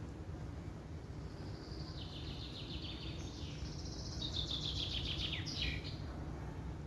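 A songbird singing one song of rapid trilled notes, starting about a second in, stepping down and up in pitch and ending in a quick falling flourish. Under it is a steady low background rumble.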